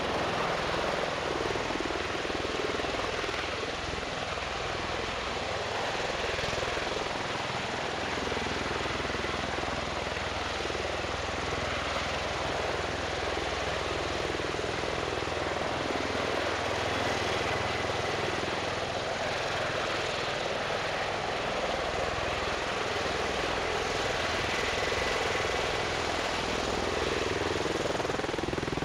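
Bell Boeing MV-22 Osprey tiltrotor in flight, its turboshaft engines and proprotors making a steady, even noise.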